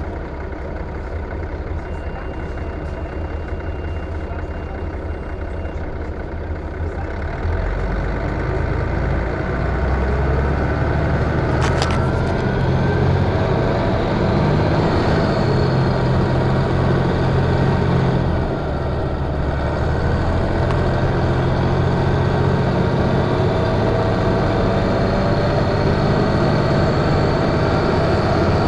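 Interior sound of a Van Hool A320 city bus: the engine runs low and steady, then grows louder about seven seconds in as the bus pulls away, with a rising whine. There is a sharp click about twelve seconds in, and a brief dip in the engine sound two-thirds of the way through where the gearbox shifts up.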